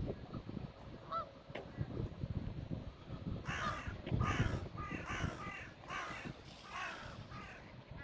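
A bird calling harshly about six times in quick succession, beginning about three and a half seconds in, after a single short call about a second in.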